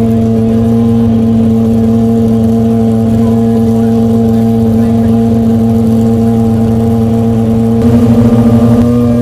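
Aston Martin Vulcan's V12 engine running loud at steady revs, holding one pitch, with a brief pulsing surge near the end.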